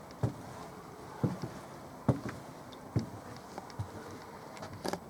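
Footsteps of a person walking at a steady pace, about one step a second, over a quiet background hiss.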